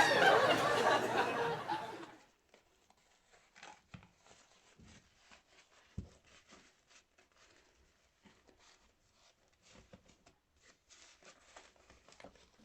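A laugh-like giggle with gliding pitch for about two seconds, then it cuts off to faint scattered clicks and rustles of small items being handled.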